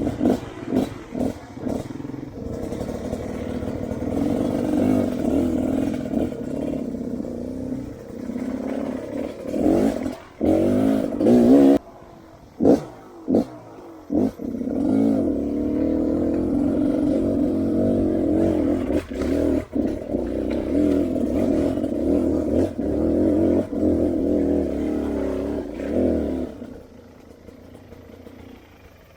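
Off-road dirt bike engine riding on a trail, the throttle rising and falling, with a run of short sharp blips and cut-offs around the middle. The engine sound drops away near the end.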